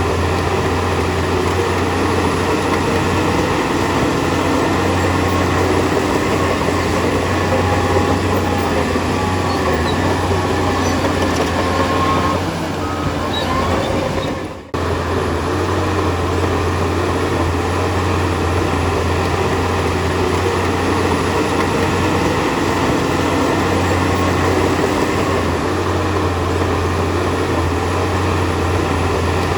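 Heavy diesel earthmoving machinery running steadily under load, a deep engine hum with clattering mechanical noise; it dips and cuts out for an instant about halfway, then carries on.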